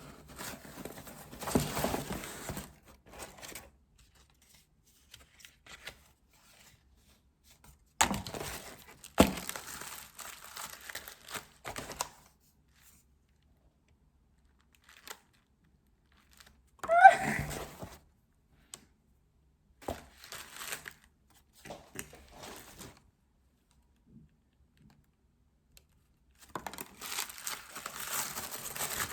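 Wrapping being crinkled and torn by hand in several short bouts with quiet pauses between, and a brief rising squeak about halfway through.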